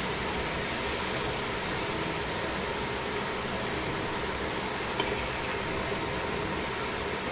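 Chicken thigh, cabbage and carrot sizzling steadily in a stainless steel pan, with a sharp click of tongs against the pan about five seconds in and a lighter one a second later.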